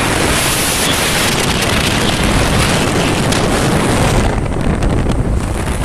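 Loud wind buffeting the microphone while riding. The high hiss eases about four seconds in.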